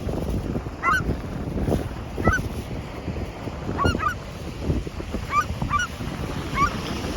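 Seagulls calling, a run of short squawking calls every second or so, over a constant low rumble.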